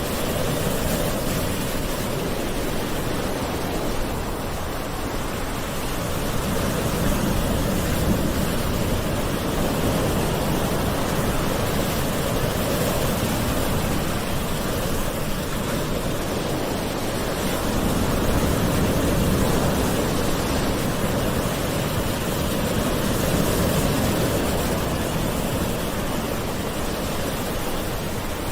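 Gentle sea waves washing onto a shore, a continuous rush of surf that swells and eases slowly every several seconds.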